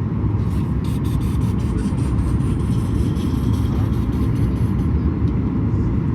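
Steady low rumble of cabin noise inside a Boeing 737 MAX 8 airliner, with a few faint light ticks or rustles in the first few seconds.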